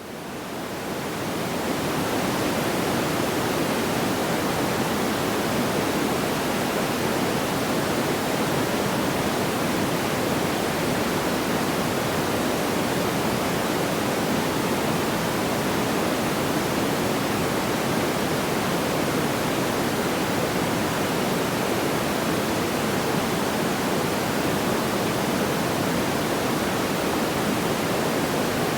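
Steady, even rushing noise without any distinct crackles or pops, fading in over the first couple of seconds and then holding level.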